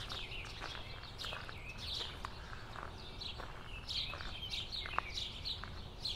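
Small birds chirping and singing in many short, high calls, with a few faint ticks in between.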